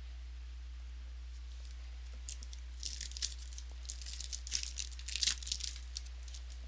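Crinkling and tearing of a trading-card pack's foil wrapper, a rapid cluster of crackles starting about two seconds in and lasting about four seconds, over a steady low electrical hum.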